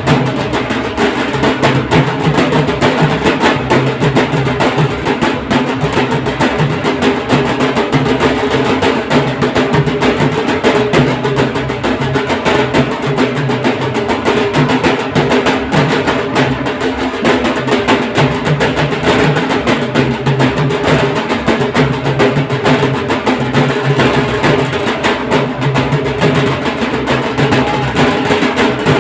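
Dhol drums playing a fast, unbroken rhythm.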